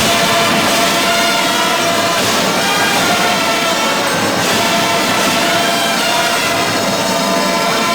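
Marching band brass section playing loud, sustained chords.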